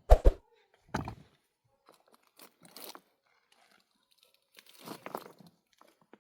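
Scattered knocks and rustling scrapes of handling work, a sharp knock at the start followed by softer ones about a second, three seconds and five seconds in.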